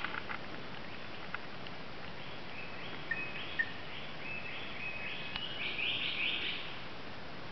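Forest background hiss with a run of short, high-pitched bird calls in the second half, growing louder shortly before the end, and a few faint clicks.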